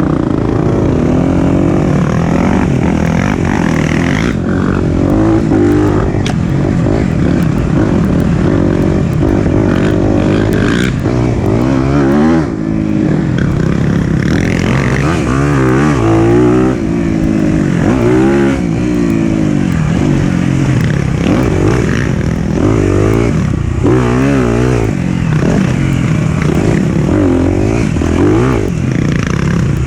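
Four-stroke dirt bike engine being ridden on a trail, revving up and dropping back over and over as the rider works the throttle and gears.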